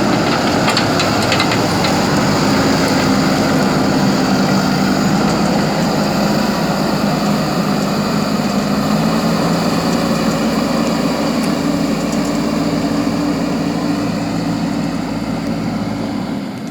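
JCB backhoe loader's diesel engine running steadily, with some light rattling in the first second or so.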